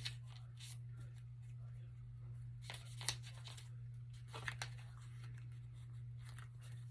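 Paper pages being handled and turned, with a few short rustles and taps about three seconds in and again a little later, over a steady low electrical hum.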